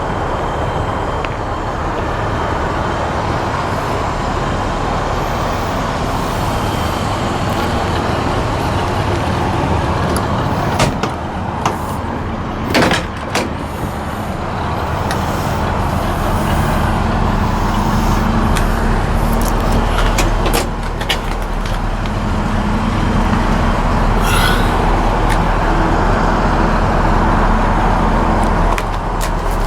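A 1966 Chevrolet C-10 pickup's 350 V8 running steadily under engine and road noise, getting louder about halfway through. A few sharp clicks or knocks come a little before the middle.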